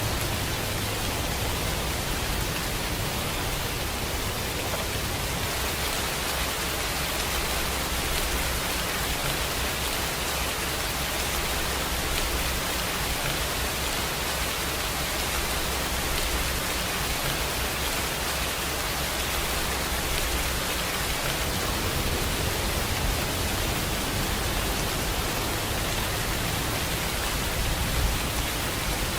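Steady rainfall: a dense, even hiss of rain falling on a surface, with no single drops or gusts standing out.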